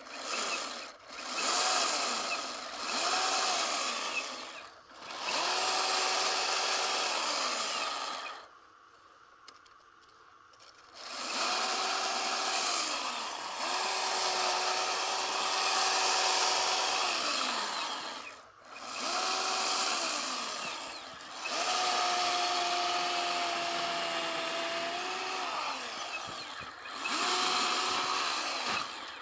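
Chainsaw revved in about eight short bursts while carving a block of packed snow, each burst rising in pitch, holding, then falling away, with a hiss of cut snow over it. It stops for about two seconds about a third of the way in.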